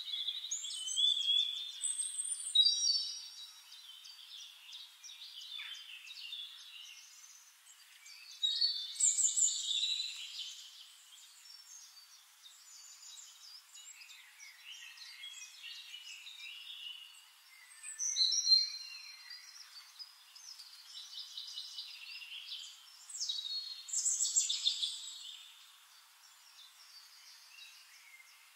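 Birds singing: bursts of high chirps and warbling phrases that come and go every few seconds.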